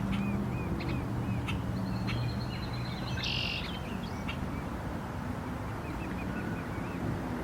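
Birds chirping outdoors, a series of short, evenly repeated chirps with a brief buzzy call about three seconds in, over a low steady hum that fades out partway through.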